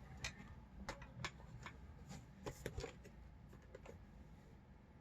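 Faint clicks and taps of hard plastic as an action figure and its accessories are handled and posed, about eight small clicks in the first three seconds, then only quiet room noise.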